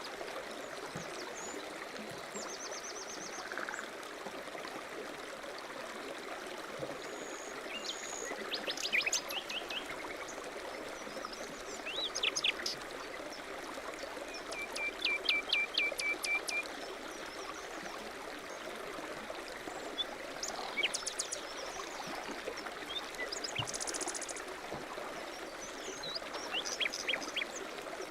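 Stream running steadily, with birds chirping now and then over it, including a short run of about eight quick, evenly spaced notes in the middle.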